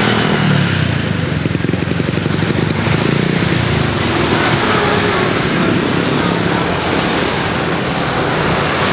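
Loud, steady engine noise: a rushing hiss over a low hum.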